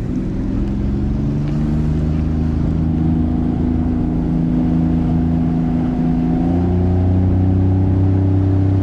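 Bass boat's outboard motor running under way, its pitch climbing slowly as the boat picks up speed, then stepping up louder about six and a half seconds in.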